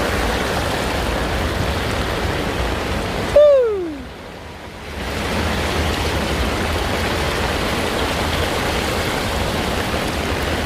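Heavy rain pouring steadily. About three seconds in, a loud short tone slides downward in pitch for about half a second, and the rain noise drops away for a second or so before coming back.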